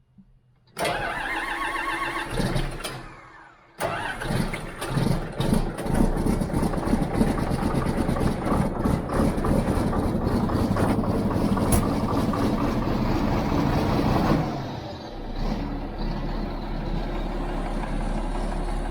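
Vehicle engine being started: a first short run about a second in dies away, then the engine catches at about four seconds and runs loud and uneven before settling into a steadier idle near the end.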